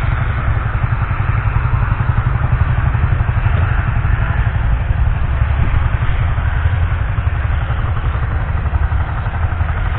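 Bedford S Type's 4.9-litre diesel engine running steadily with an even, rapid low beat, holding the same speed with no revving.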